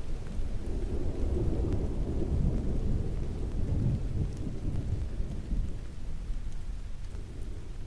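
Low rumble of distant thunder rolling over steady rain, the rumble dying away in the last few seconds.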